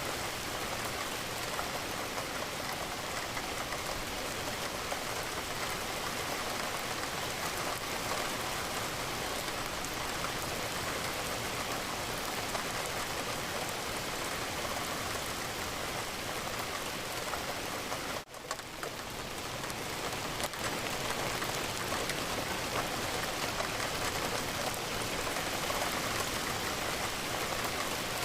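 Steady rain falling on a window, an even hiss of drops that drops out briefly about two-thirds of the way through and then resumes.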